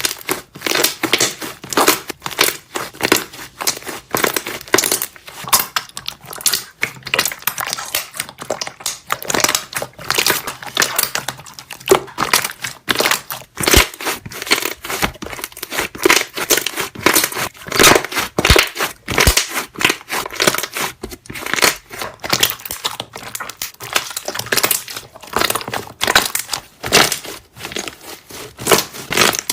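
Slime being squeezed and pressed, with rapid, continuous air-bubble pops and crackles.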